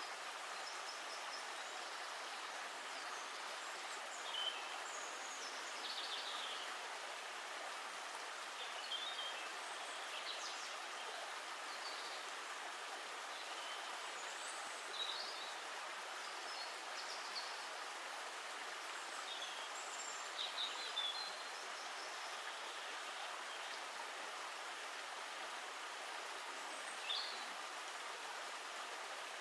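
Steady rushing of flowing water, with short high bird chirps scattered through it every second or two.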